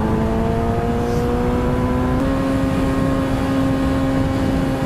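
Motorcycle engine running while riding, its pitch climbing slowly and then stepping up about two seconds in, over steady wind and road rumble.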